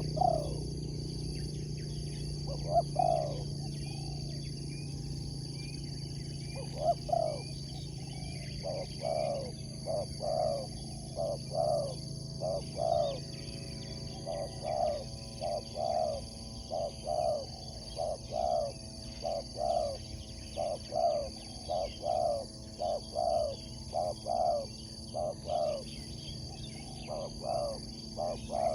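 Spotted dove (tekukur) cooing. A couple of single coos come first, then from about seven seconds in a steady run of short coos, roughly one a second. A steady high insect drone runs underneath.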